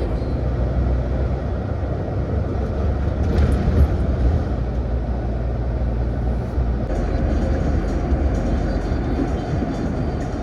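Heavy truck driving: steady low engine drone with road and tyre rumble.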